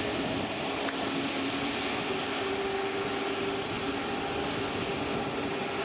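Jet airliner engine noise, steady, with a faint whine that steps up in pitch about two seconds in.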